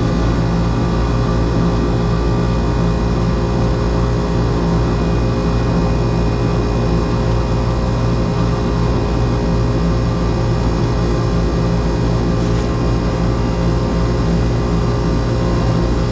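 Air conditioner condensing unit running, its fan and compressor making a loud, steady hum with constant tones.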